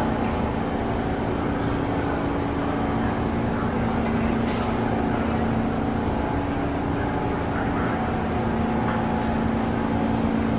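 New York City subway train standing in the station with a steady electrical hum, and a short hiss of air about halfway through.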